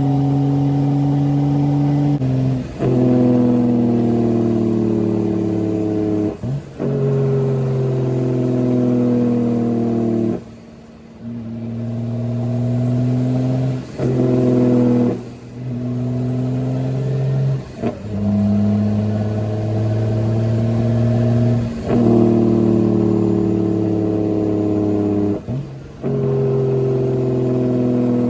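Straight-piped Caterpillar C13 inline-six diesel in a Kenworth W900B dump truck running on the road through a series of gear changes. The loudness drops briefly at each shift, and the pitch mostly sags within each stretch between shifts.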